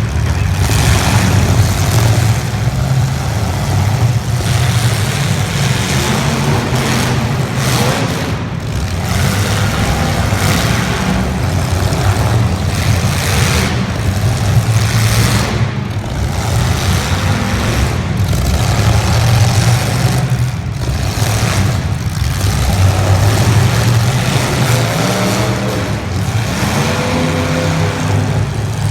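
Several demolition derby cars' engines running loud and revving up and down over and over, the revs rising and falling many times.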